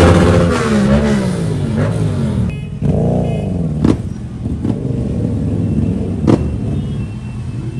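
Motor vehicle engines running and revving, with a few sharp knocks.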